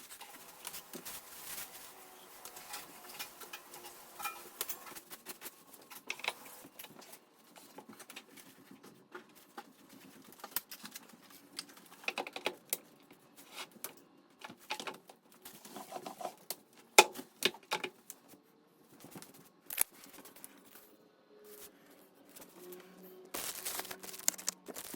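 Irregular clicks, taps and crinkles of packaging and plastic parts being handled while a new steam vacuum cleaner is unboxed, with a louder clatter near the end.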